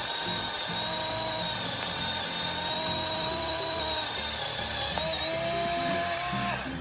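12-inch electric chainsaw running steadily with a whine as it cuts through a tree downed by ice and snow, its pitch wavering and stepping slightly about five seconds in.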